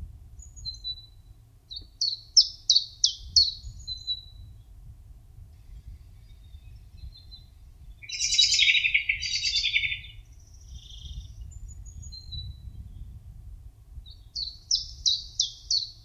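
Small songbirds chirping and singing: a quick phrase of about five falling notes near the start and again near the end, thin single calls in between, and a louder burst of harsh chatter in the middle.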